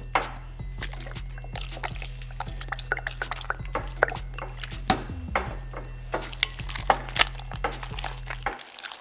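Spatula stirring sticky slime full of water beads in a glass bowl: many quick, irregular wet clicks. Background music with a steady bass line runs beneath and stops shortly before the end.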